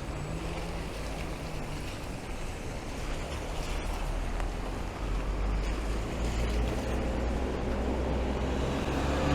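Rain and wet city traffic: a steady hiss with a low engine rumble from passing vehicles that grows louder in the second half.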